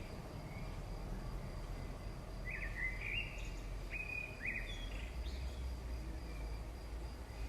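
Bird chirping in short groups of calls about halfway through, over a steady low hum.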